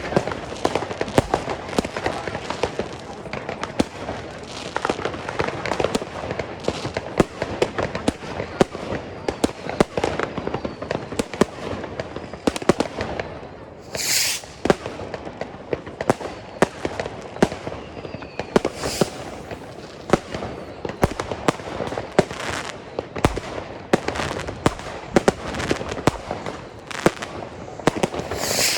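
Consumer fireworks going off: a dense run of sharp bangs and crackles, with a few short hissing bursts in between.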